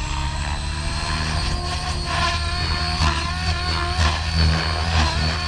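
Oxy5 electric RC helicopter in flight: a high whine from the electric motor over a low drone from the rotor. The pitch wavers as it manoeuvres, and the low drone swells about four seconds in.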